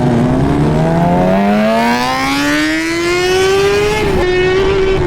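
Car engine accelerating hard, its pitch climbing steadily for about three and a half seconds, then dipping slightly and holding steady.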